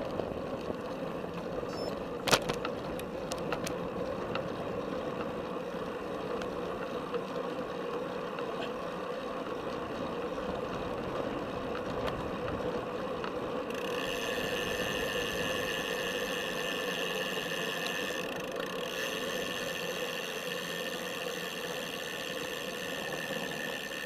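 A Felt F75 road bike being ridden, heard through a camera strapped to its top tube: steady tyre and drivetrain noise with wind, and a sharp knock about two seconds in. About halfway through, a set of steady high-pitched whines joins the ride noise.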